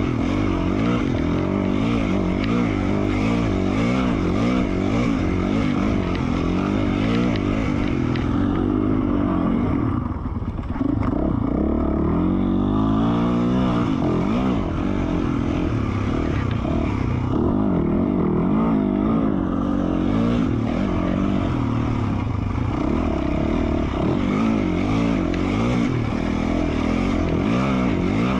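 2020 Yamaha YZ450F single-cylinder four-stroke dirt bike engine, fitted with an FMF Q4 slip-on exhaust, running hard on the trail, its revs rising and falling with the throttle. About ten seconds in it backs off briefly, then revs climb again.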